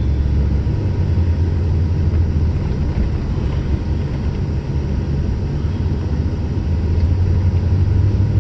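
Vehicle on mud-terrain tyres driving on a snowy road: a steady, low drone of engine and tyre noise.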